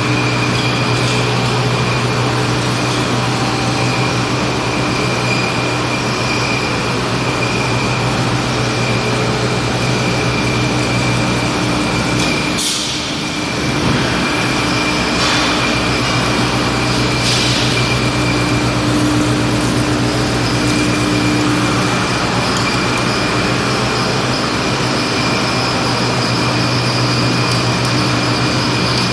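Steel pipe production line running: a loud, steady industrial drone with a constant hum and a held high tone. About 13 seconds in, the noise drops briefly with a short hiss, then resumes.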